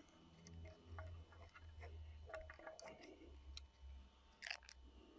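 Faint, scattered clicks of small hand tools and stainless steel safety lockwire being handled as the excess wire is snipped and worked, over a low steady hum.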